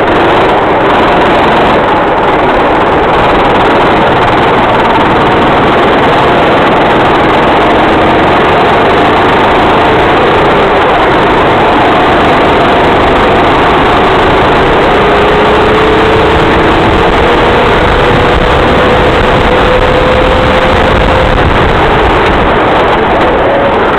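Racing kart engine running at speed, heard as a loud, steady noise from an onboard microphone, its pitch climbing slowly as the kart accelerates down a straight.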